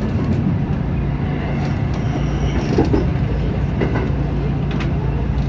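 JR 207 series electric commuter train's running noise: a steady low hum with a few sharp clicks.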